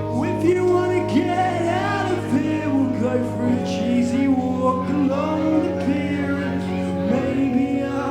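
Live band playing: a sung melody over guitar and sustained chords, the chord changing about three and a half seconds in and again near the end.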